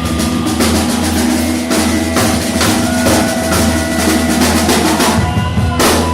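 Live rock band playing, the drums to the fore with a run of fast fills across the kit over steady bass notes, and a loud cymbal crash near the end.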